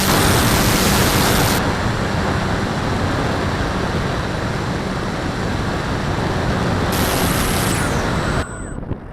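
Loud, steady rush of wind over an action camera riding on a flying RC sailplane. It turns duller about a second and a half in, brightens again near seven seconds, then drops away sharply near the end.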